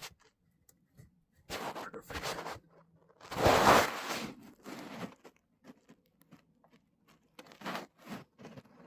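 Short bursts of abrasive scraping on the aluminum timing chain cover, cleaning up the metal around a pinhole coolant leak before sealing it. There are four or five bursts; the longest and loudest comes about three and a half seconds in.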